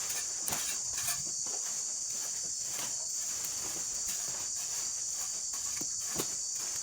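Steady high-pitched insect chorus of crickets or cicadas, with a few scattered light clicks and knocks over it.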